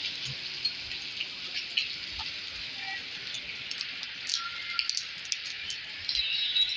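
Rain falling steadily: an even hiss with many sharp drops tapping. Near the end a brief high thin ringing sound rises above it.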